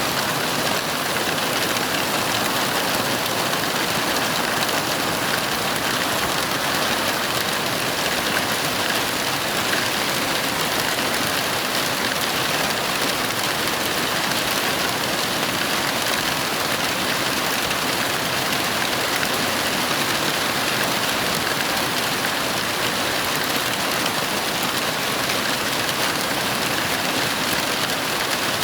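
Heavy rain falling steadily, a dense, even hiss without pauses.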